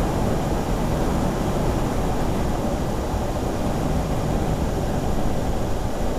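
Steady low rumble of a vehicle driving: even road and engine noise with no sharp events.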